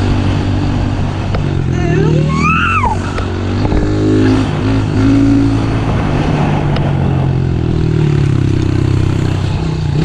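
Small off-road engine running steadily, its pitch shifting slightly as the throttle changes, with a brief rising-and-falling high tone about two and a half seconds in.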